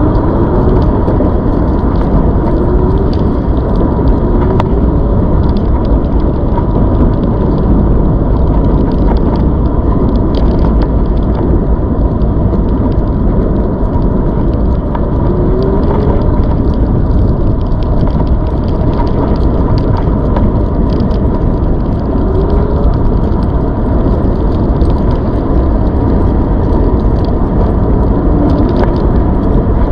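A ZOOZ electric bike being ridden, giving a steady, loud rumble and rattle with a constant thin whine through it.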